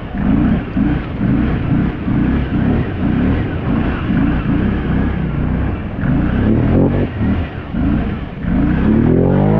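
Can-Am ATV engine running under way, its low drone surging unevenly two or three times a second. Near the end a rising tone sweeps up into music.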